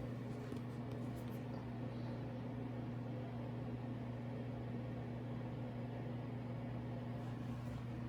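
Steady low hum with an even faint hiss in a small room, unchanging throughout.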